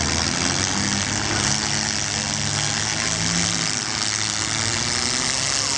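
Demolition derby car engines running, with steady pitched engine sound that wavers up and down under an even wash of noise.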